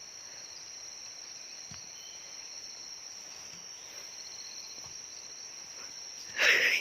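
Steady high-pitched drone of insects in the jungle, a chorus of crickets or cicadas. Near the end a short, loud noise cuts across it.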